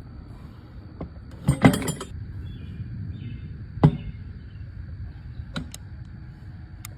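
Metal tools clinking and knocking during tire work: a quick cluster of clinks about one and a half seconds in, a single loud knock near four seconds, and a few lighter ticks later, over steady outdoor background noise.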